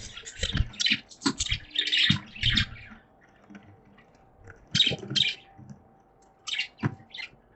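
Budgerigars chirping in quick bursts, busy for the first three seconds, then pausing, with a few more short bursts around five and seven seconds. Some of the chirps have low thumps under them.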